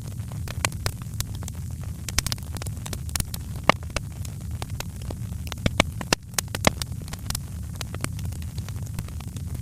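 Wood fire crackling: irregular sharp snaps and pops, a few louder than the rest, over a steady low rumble.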